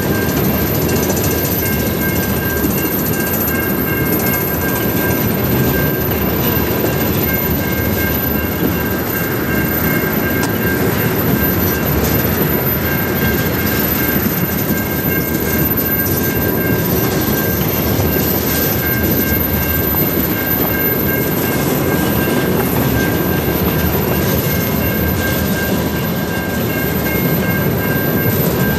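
Freight train tank cars rolling past at close range: a steady loud rumble of wheels on rail, with several steady high-pitched tones ringing above it.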